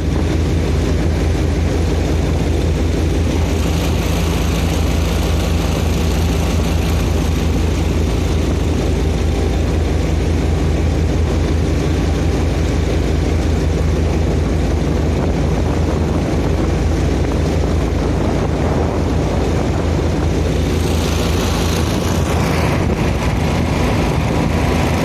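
Swamp boat's engine running steadily at speed, with a constant low, even drone and a rush of higher hiss about twenty-one seconds in.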